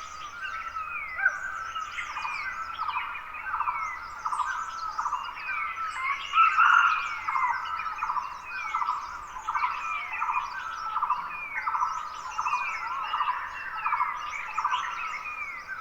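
Several Himalayan forest birds singing together in a dawn chorus: one bird repeats a short falling call over and over, under higher twittering from others, with a louder burst of song about six and a half seconds in.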